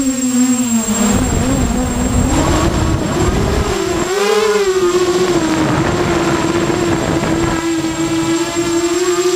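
Self-built QAV250 racing quadcopter's brushless motors and propellers whining, the pitch rising and falling as the throttle changes. A low rushing noise runs under it and stops near the end.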